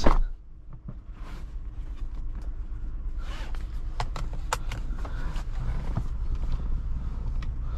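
Irregular footsteps and light knocks over a steady low rumble.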